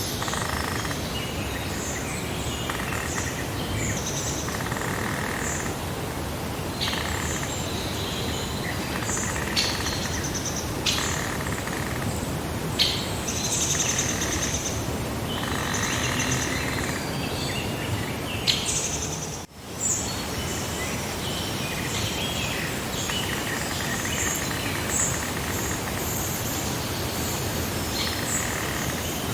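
Outdoor birdsong: many short chirps and trills from several birds over a steady background hiss. The whole soundscape briefly drops out about two-thirds of the way through.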